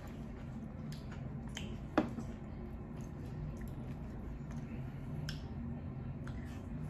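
Close-up chewing with faint wet mouth clicks, and one sharp tap of a metal fork against the plate about two seconds in.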